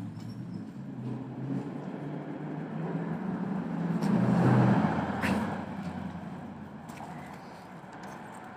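A motor vehicle driving past: its engine grows steadily louder, peaks about four and a half seconds in, then fades away.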